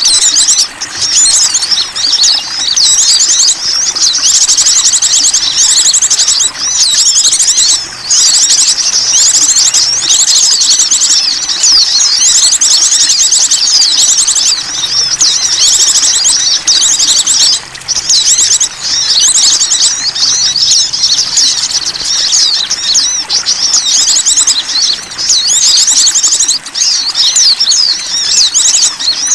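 Dense chorus of small songbirds: high chirps and fast buzzy trills overlapping without a break, a lure call recording meant to draw small wild birds.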